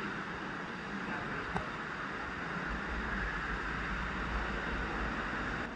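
Steady rush of creek water flowing through the canyon. A low rumble of wind on the microphone joins about three seconds in.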